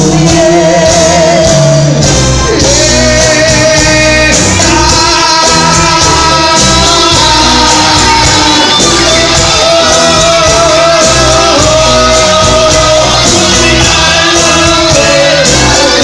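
A band playing a ballad with a steady beat under a voice holding long notes with vibrato.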